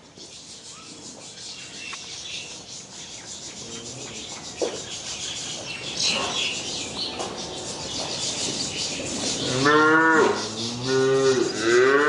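A cow mooing three times near the end, each call rising and falling in pitch, the third one the longest and loudest. Before the calls, a steady high chirring grows louder in the background.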